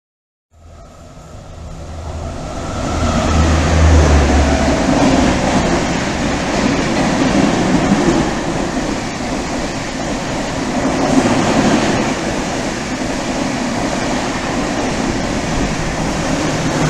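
A Duronto Express hauled by a WAP-5 electric locomotive passing through a station at high speed. The noise starts about half a second in and builds as the train approaches, with a deep hum as the locomotive goes by. It is loud by about three seconds, then turns into a steady rush and rumble of coaches streaming past.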